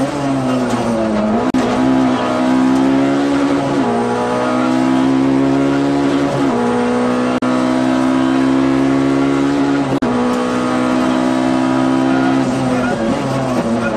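Peugeot 106 kit rally car's engine heard from inside the cabin at full throttle, climbing in pitch through each gear with upshifts about four, six and a half and ten seconds in. Near the end the pitch falls and jumps as it brakes and changes down.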